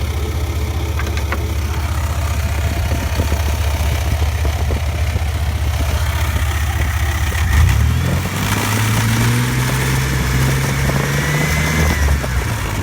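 Chevy Blazer engine running at idle with scattered ticks and knocks, then revved up about seven and a half seconds in and held at higher revs. It is knocking after running three quarts low on oil, which the owner takes for internal engine damage.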